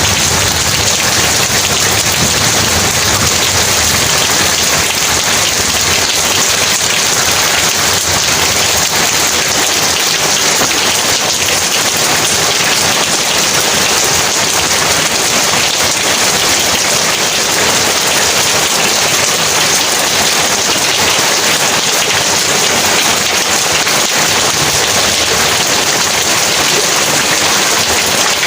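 Heavy rain falling steadily, a dense, even hiss of drops pattering on surfaces.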